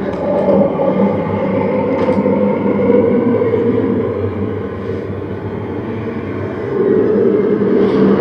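Film soundtrack of a train carriage running on rails: a steady rumble with low held tones, swelling a little near the end.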